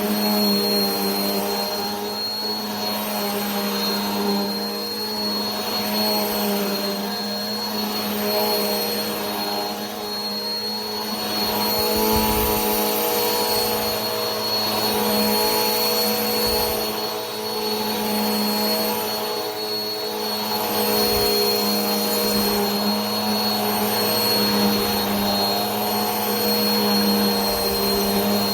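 Vacuum cleaner running continuously: a steady motor hum with a high whine over a broad rush of air, swelling and easing slightly every few seconds.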